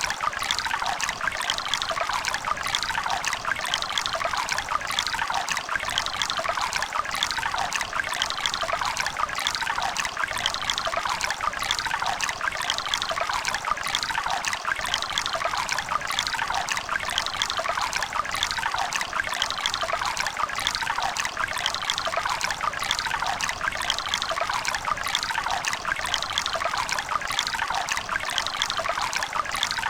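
Running water of a river or stream burbling and splashing steadily, a dense bright trickle with no deep rumble.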